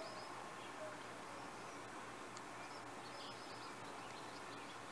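Faint outdoor ambience with two short runs of high bird chirps, one at the start and one about three seconds in, over a steady background hiss.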